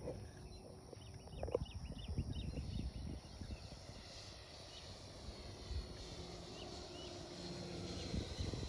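Wind rumbling on the microphone, with birds chirping for the first few seconds. From about halfway in comes the faint, slowly rising whine of a distant RC electric ducted-fan jet, an F9F Cougar, on its landing approach.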